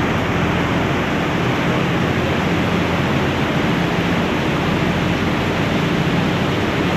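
Cruise boat under way: a steady, loud rushing noise of wind and water over a low, even engine hum.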